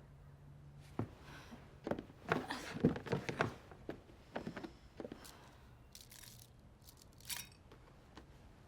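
Irregular rustling and scraping with sharp clicks over a low steady hum. The clicks and rustles are busiest between about one and three and a half seconds in, with a few more scattered later.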